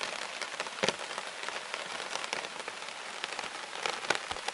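Light rain falling on a hammock tarp overhead: a steady patter of drizzle with many small drops ticking on the fabric, one sharper drop a little under a second in.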